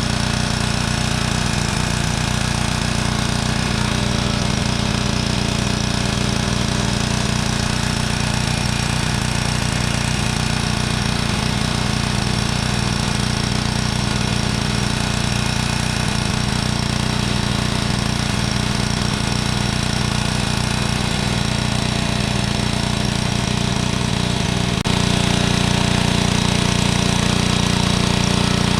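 Engine-driven machine running steadily without a break; about three-quarters of the way through, the sound suddenly gets louder and its low drone becomes smoother.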